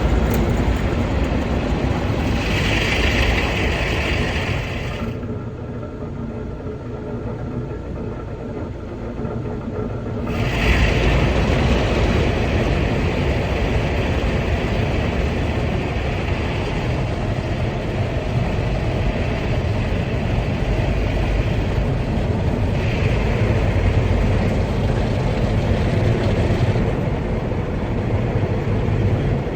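Automatic car wash machinery running: a steady, loud rushing noise with a low rumble. It eases off about five seconds in and comes back strongly about ten seconds in.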